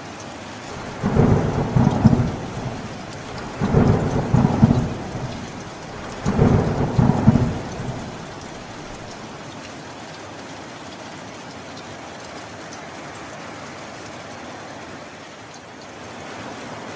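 Steady rainfall with three loud claps of thunder in quick succession, each lasting about a second and a half, in the first half. After them only the rain continues.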